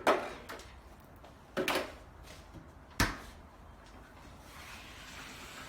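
Knocks and clatters of a DC refrigerator and its parts being handled: three of them, the last a sharp click about three seconds in.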